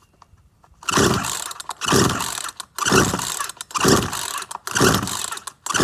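Poulan Pro PR4218 42cc two-stroke chainsaw being pull-started: six quick rope pulls about once a second, beginning about a second in, each a rasping whir of the recoil starter spinning the engine over. The engine does not catch between pulls: a saw that fails to start.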